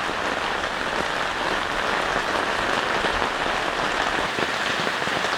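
Heavy rain pouring down steadily as a dense, even patter.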